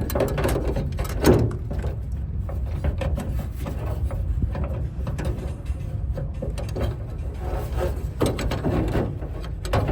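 Scattered clicks, taps and rattles of lock parts and linkage being handled and worked into place inside a van's side door, with a louder knock about a second in, over a steady low rumble.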